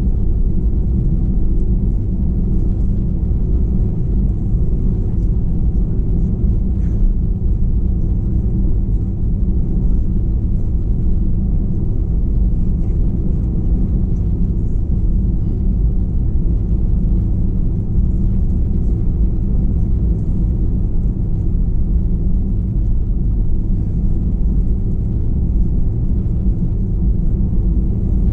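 Steady low rumble of an Airbus A321-211 cabin heard from a window seat, its CFM56 jet engines running, with a few steady hum tones under the rumble.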